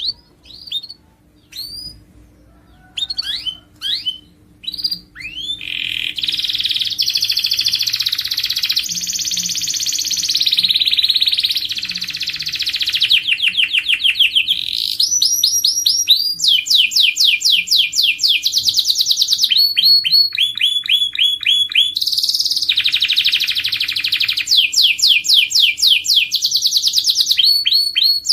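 Domestic canary singing: a few separate chirps over the first five seconds, then a continuous song of fast trills, rapid strings of repeated notes sweeping in pitch, broken into phrases by brief pauses.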